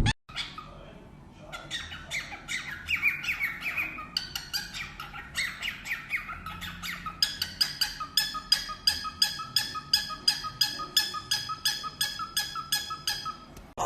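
A parrot squawking in quick series of short calls, which settle about halfway through into a steady, even run of about four calls a second.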